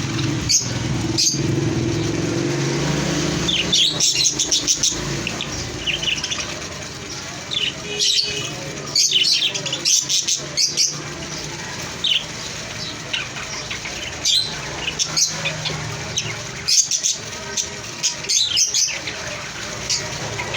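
Small parrots chirping and twittering in short, scattered calls, with a few sharp clicks in between.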